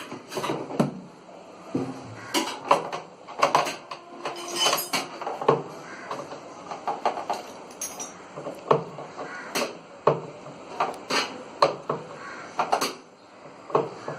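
Irregular clinks, clicks and knocks of hand tools and metal and plastic parts being handled and fitted while a front-load washing machine's drum assembly is put back together.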